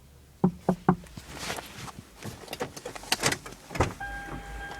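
Clicks and knocks of a car door and of handling inside a car, then a steady low hum with a faint high tone starting about four seconds in.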